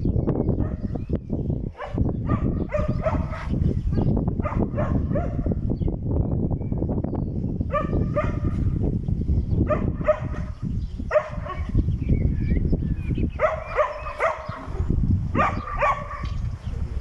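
Short pitched animal calls, repeated every second or so in clusters, over a loud, steady low rumble.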